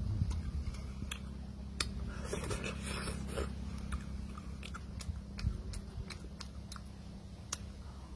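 A person chewing a mouthful of cooked fish close to the microphone, with scattered sharp mouth clicks and smacks.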